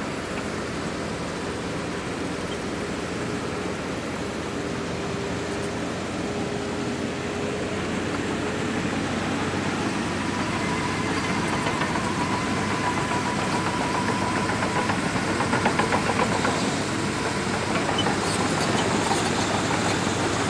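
Shantui DH17C2 bulldozer's diesel engine running steadily under work, with a thin whine over it. It grows somewhat louder about halfway through.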